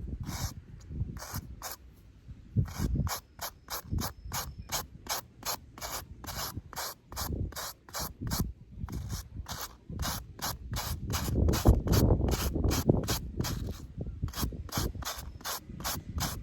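A ratcheting mechanism clicking in quick, even strokes, about three a second, with a couple of brief pauses. Wind rumbles on the microphone underneath.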